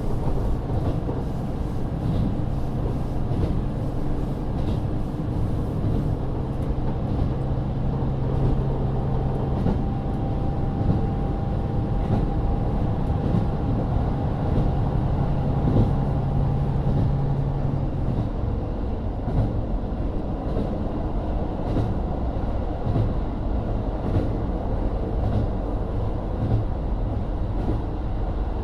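Cabin running sound of a JR Hokkaido KiHa 40 350-series diesel railcar with its N-DMF13HZB diesel engine. The engine hums steadily under way, then about eighteen seconds in its note drops away and the car runs on with wheel and rail rolling noise.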